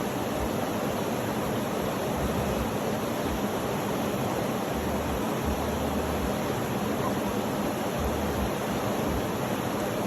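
Steady, unchanging rushing noise of a sleep-sound track, spread evenly from low to high with no separate events.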